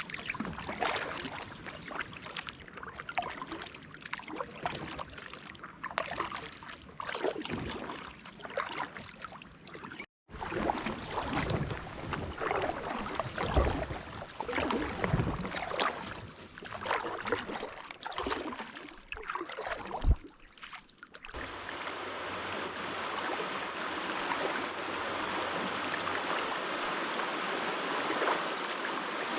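Kayak paddle strokes, irregular splashes and drips of water, broken by a sudden short gap about ten seconds in. About two-thirds of the way through they give way to the steady rush of flowing creek water over rapids.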